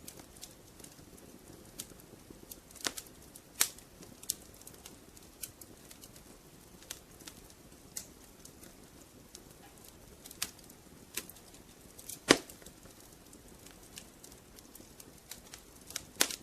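Wood fire crackling in a fireplace: irregular sharp pops and snaps over a soft steady hiss, with one louder pop about twelve seconds in.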